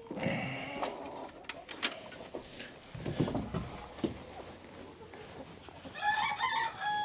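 Chickens calling in a coop, with a few light clicks and rustles, and a rooster crowing near the end, ending on a long held note.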